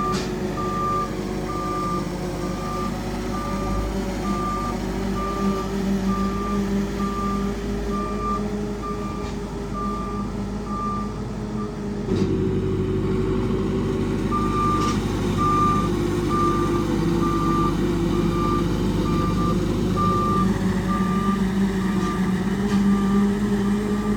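Vehicle reversing alarm beeping a little faster than once a second over the vehicle's running engine; the beeping stops for about two seconds around the middle, then starts again.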